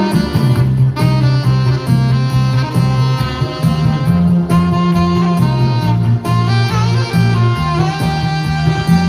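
Saxophone playing a Korean trot melody in long held notes over accompaniment with drums and bass.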